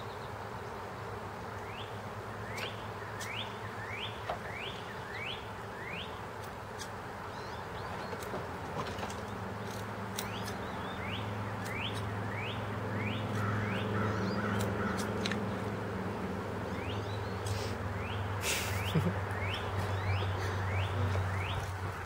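A songbird singing runs of short, rising whistled notes, about two a second, in three bouts. A low steady drone joins about halfway through, and there are a few brief clicks near the end.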